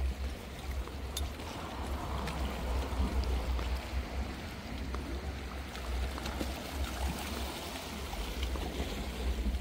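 Water splashing and trickling, with wind rumbling on the microphone and a few faint clicks.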